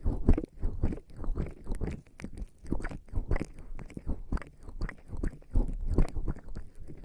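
Wet, squishy rubbing and pressing of bare skin coated in lubricating jelly against a microphone, in quick irregular strokes.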